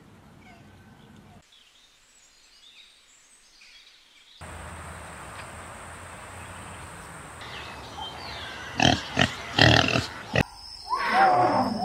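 Pigs in a pen grunting in several loud short bursts in the last few seconds, after quieter outdoor background sound.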